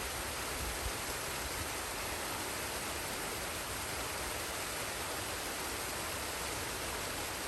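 Forest waterfall and stream, the water rushing as a steady, unbroken noise.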